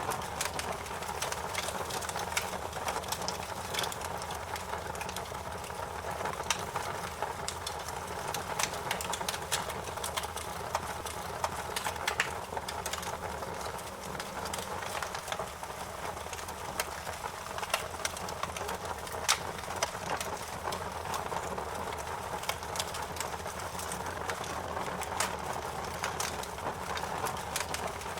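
Wood fire crackling in a fireplace: a steady patter of small crackles over a soft hiss, with a few sharper pops standing out, around 12 and 19 seconds in.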